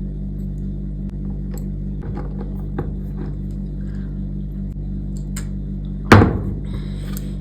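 A steady low hum under scattered light taps and clicks, with one loud knock about six seconds in that rings off briefly.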